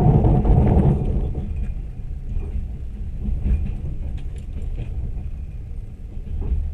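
Moving train heard from aboard: a steady low rumble of the wheels running on the rails, loudest in the first second and then easing slightly.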